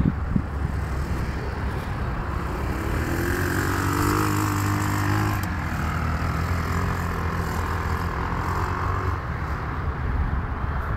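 Jaguar Agro 250 ATV engine running: it revs up over a couple of seconds, peaking about four to five seconds in, then holds at a steadier speed.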